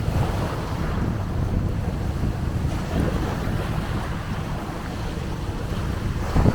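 Wind buffeting the microphone in a steady low rumble, over sea surf washing ashore, with a louder wash near the end.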